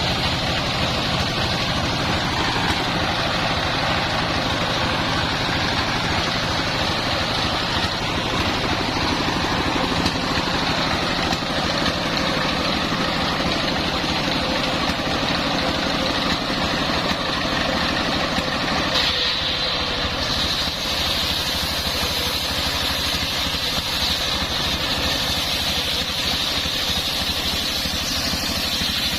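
Homemade engine-driven circular sawmill running steadily, with a brighter, hissier edge to the sound from about two-thirds of the way through.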